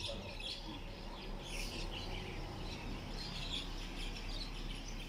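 Birds chirping: a scatter of short, high calls over a faint steady hum.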